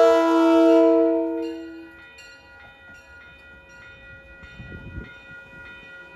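Train horn blowing a loud multi-note chord, fading out over the first second or two. A grade-crossing bell keeps ringing after it, with repeated strikes.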